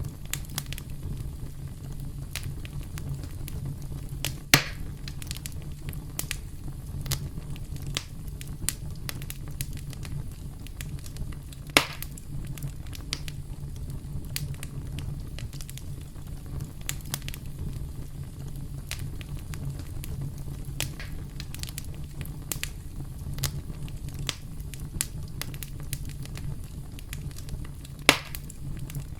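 Wood campfire crackling: a steady low rumble of burning with frequent sharp snaps and crackles throughout, and three louder pops spread across the stretch.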